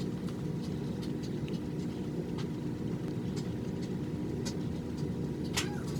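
Steady low background hum with faint scattered clicks, one slightly stronger near the end.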